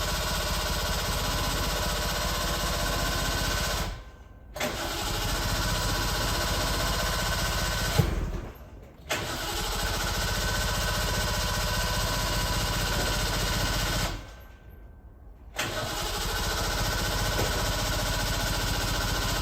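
Suzuki Jimny SJ30's two-stroke three-cylinder engine running steadily through an APIO expansion-chamber exhaust, in several stretches of a few seconds each broken by short silent gaps. A sharp click comes about eight seconds in.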